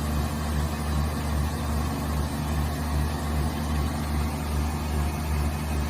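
Steady low mechanical hum from factory machinery running, with a constant rushing noise over it.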